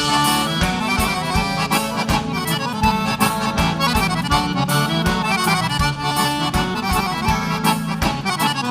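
Live gaúcho dance music played instrumentally by a band: an accordion carries the melody over a steady drum beat.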